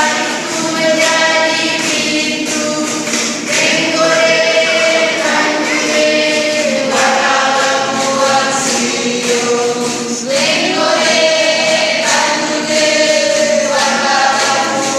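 A group of voices singing together in chorus, in long held notes that glide between pitches, as the song accompanying a traditional group dance.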